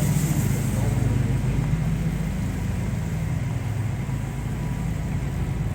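Steady low rumble of downtown street traffic, vehicle engines running.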